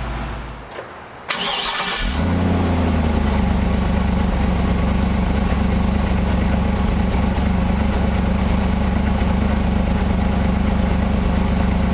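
General Motors 6.0-litre gasoline V8 of an Isuzu NPR truck starting: a brief crank about a second in, catching with a short flare, then settling into a steady idle.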